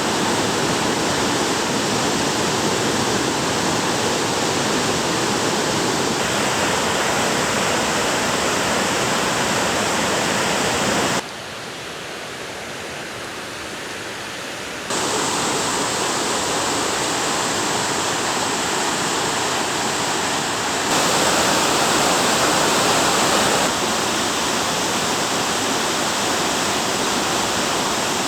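Waterfall: a steady rush of falling water filling all pitches. Its loudness jumps suddenly several times, with a quieter stretch of a few seconds about a third of the way in.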